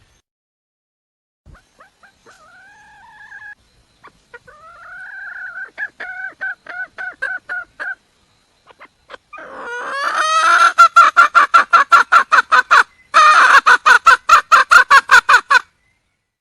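Red junglefowl hen calling for a mate: a long run of repeated clucking notes that starts faint and builds to loud, rapid clucks, about four to five a second, with a short break near the end.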